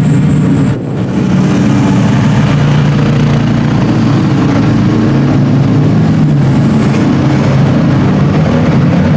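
Racing cars' engines running at high revs, the engine note rising and falling as the cars accelerate and shift gears, with a brief drop in level about a second in.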